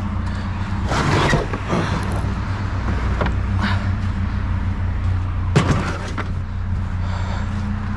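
Truck engine idling steadily, with a few short knocks and rattles of scrap being handled about a second, three and a half and five and a half seconds in.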